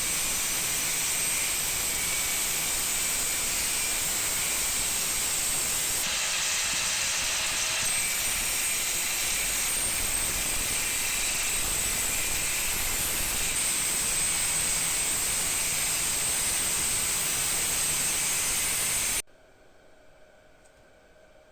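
A steady, loud hiss, strongest in the upper range, that cuts off abruptly near the end, leaving only a few faint ticks.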